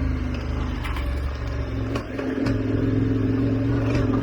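KTM adventure motorcycle engine running steadily while riding off-road, with a brief dip in revs about two seconds in. Several sharp knocks and clatter come from the bike over rough ground.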